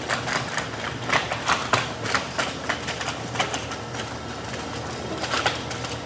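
Older Raynor commercial garage door moving under its opener, which is described as very squeaky: irregular clacks, knocks and squeaks from the door sections and rollers, about two or three a second, over a steady motor hum.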